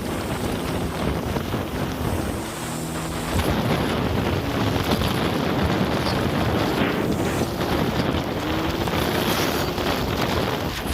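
Jet ski engine running while under way, under heavy wind buffeting on the microphone; the engine's pitch rises briefly about eight seconds in.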